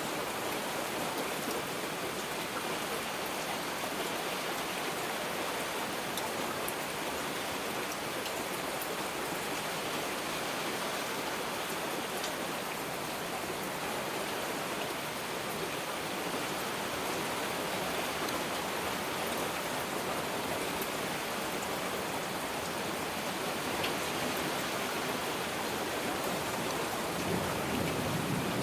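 Heavy rain falling steadily, an even hiss with no breaks. Near the end a low rumble of thunder starts to build.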